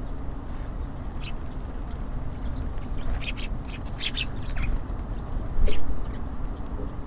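Small songbirds at a feeder giving short, high chirps in a few quick clusters, over a steady low background rumble.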